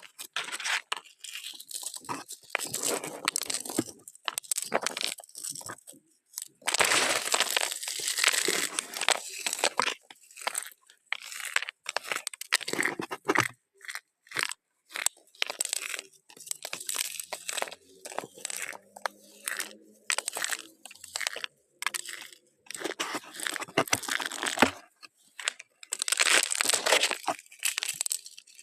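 Crinkling and crunching as something is crumpled and crushed, in many short irregular bursts with brief gaps, running on longer about a quarter of the way in and again near the end.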